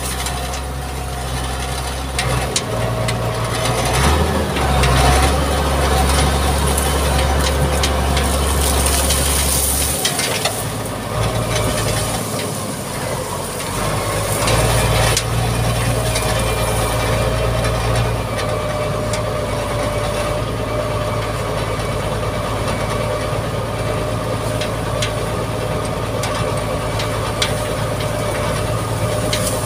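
Diesel engine of a Mitsubishi MG330 motor grader running under working load, with its low note shifting several times. Scattered clicks and knocks sound over it.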